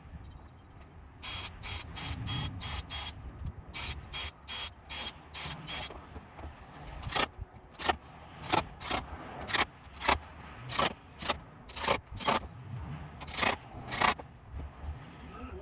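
A power drill/driver driving screws into decking boards in a rapid string of short mechanical bursts, about two a second. The bursts get louder about halfway through.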